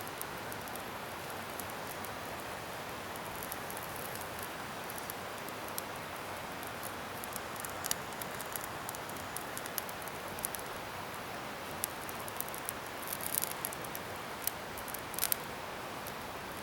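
Bonfire of scrap wood burning with a steady hiss and scattered sharp crackles and pops, which come more often in the second half.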